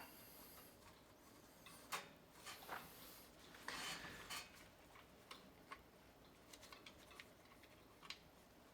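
Quiet, scattered small metal clicks and taps, with a short scrape about four seconds in, from bolts and hand tools being worked while a B&G Series 100 circulator pump is bolted back together.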